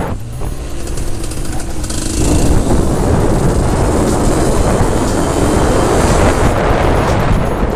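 Aprilia ETX Tuareg 125's two-stroke single-cylinder engine running under way, mixed with heavy wind rumble on the microphone. It starts a little thinner and fills out into a dense, loud rush about two seconds in.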